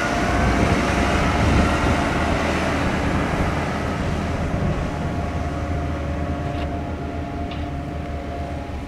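Diesel engine of heavy farm machinery running steadily with a deep rumble and a faint whine, slowly fading as it moves away.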